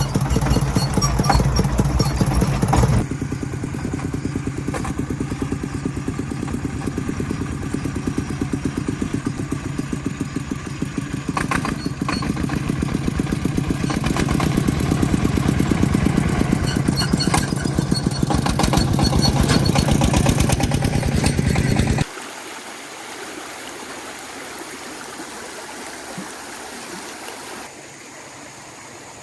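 Engine of an agricultural transport vehicle running with a fast, even pulsing. It steps down slightly about three seconds in, then drops abruptly to a much fainter sound about three-quarters of the way through.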